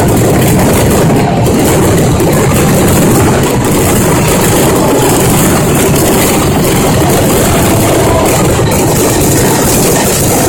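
Fireworks barrage: many shells bursting in quick succession, their bangs running together into one loud, unbroken rumble.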